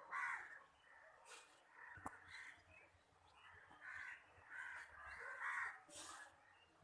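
A bird calling faintly in a series of short calls, about six or seven spread over several seconds.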